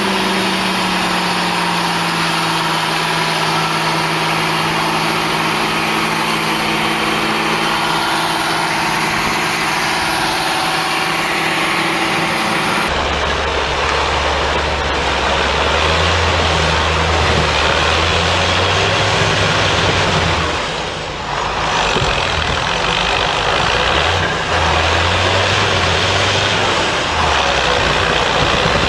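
Heavy vehicle engines running: a steady engine note first, then, after an abrupt change about halfway through, a deeper, low engine note that steps up and down and briefly drops off about two-thirds of the way in.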